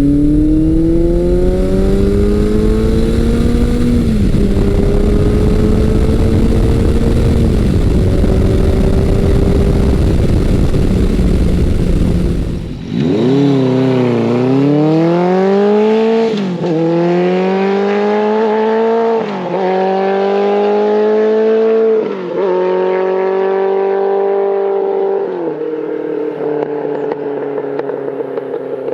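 Big-bore motorcycle engine accelerating hard through the gears: the pitch climbs and drops at each upshift. The first run has a dense low rumble under the engine. About 13 seconds in, it cuts to a second run with a cleaner engine note, rising through about five upshifts.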